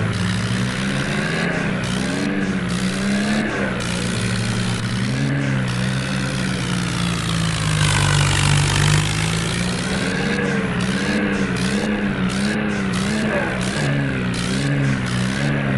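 Tractor diesel engine running under load while hauling two loaded trailers, its pitch rising and falling in a slow, regular waver. About eight seconds in, a louder, noisier surge lasts about a second.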